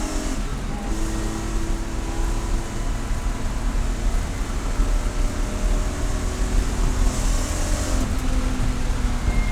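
Race car engine running at speed with a steady low rumble and a held engine note that shifts about half a second in and again near eight seconds in.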